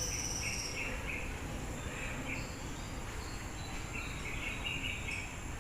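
Park ambience: insects buzzing in steady high tones, the loudest one stopping about a second in, with short bird chirps repeating throughout over a low rumble.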